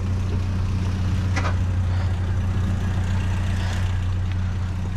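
A vehicle engine running steadily with a low hum. A short click comes about a second and a half in.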